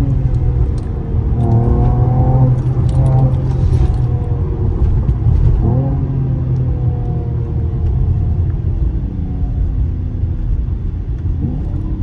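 Mercedes-AMG engine and exhaust heard from inside the cabin as the car slows down: a deep rumble whose pitch slowly falls, jumping up briefly about six seconds in and again near the end as the gearbox downshifts.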